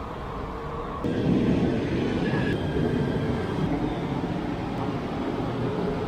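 KTM Komuter commuter train arriving at the station platform: a steady rumble that steps up in loudness about a second in and holds.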